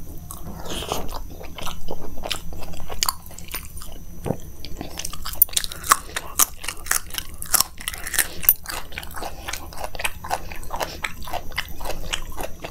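Close-miked chewing of a mouthful of corn-flour roti wrapped with mustard-greens saag, then crisp bites and crunching of raw white radish (mooli), with sharp crunches coming thick and fast from about five seconds in.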